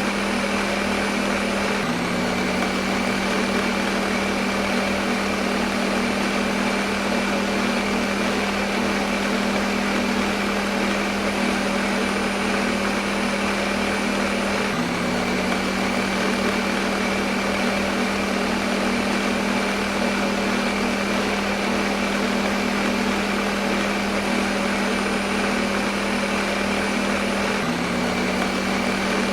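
Electric kitchen blender motor running continuously, a steady whirring hum with a small jump in pitch about every 13 seconds.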